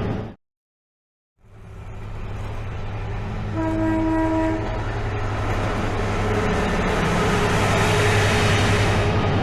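Class 66 diesel locomotive running light, its two-stroke V12 diesel engine droning steadily. Its horn sounds once, about a second long, roughly four seconds in, and the rumble of the engine and wheels builds towards the end as it draws closer. The sound cuts out completely for about a second just after the start.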